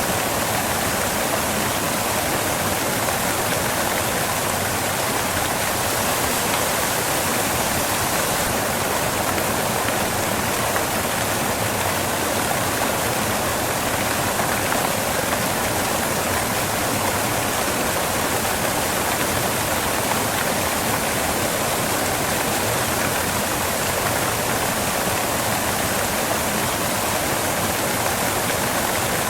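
Waterfall crashing onto rocks: a steady, even rush of falling water.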